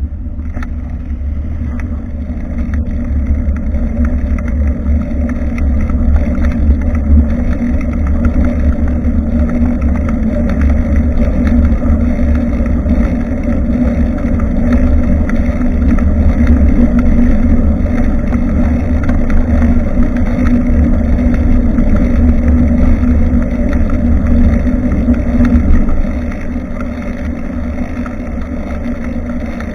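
Wind rumbling on a rear-facing action camera's microphone during a bicycle ride, over steady road and tyre noise. The rumble is louder through most of the stretch and eases a step about 26 seconds in.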